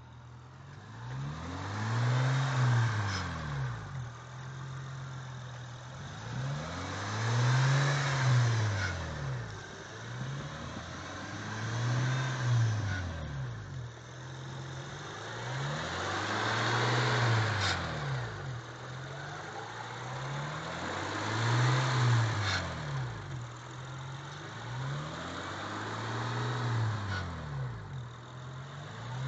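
Honda Accord's V6 engine revved in neutral about six times, each rev rising to a peak and falling back, with a metallic grinding rattle around 2000 rpm. The rattle was a loose heat shield over the catalytic converter.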